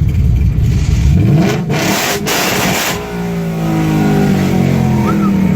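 2016 Mustang GT's 5.0 V8 being revved. The engine note climbs about a second in, holds with a loud rush for a second or so, then winds back down over the next couple of seconds and settles.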